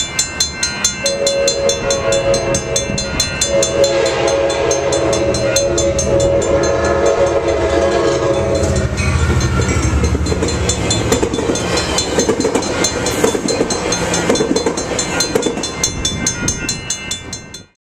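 Coaster commuter train locomotive sounding its horn at a grade crossing, a short blast and then a long one, over a grade-crossing bell ringing steadily. The locomotive and cars then rumble past over the crossing, and the sound cuts off abruptly near the end.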